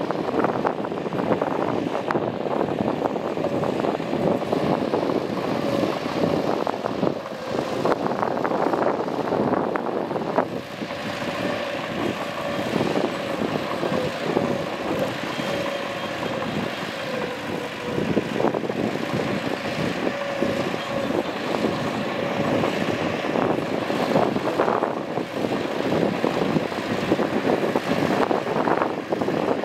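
Mitsubishi bulldozer's diesel engine running steadily under work, with irregular clattering throughout.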